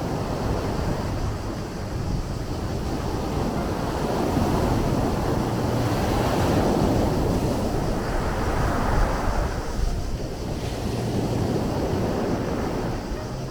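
Sea waves washing in, a rushing swell that builds to its peak about two-thirds of the way through and then falls back, over a steady low rumble.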